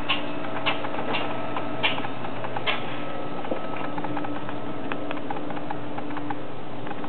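Light, irregular tapping and ticking, with several louder taps in the first three seconds and fainter ones after, over a steady low hum.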